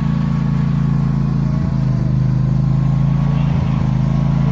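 A tractor engine running at a steady speed, making an even low drone.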